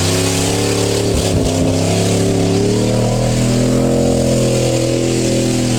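Pickup truck engine revved high and held there while the truck spins doughnuts, its pitch wavering a little.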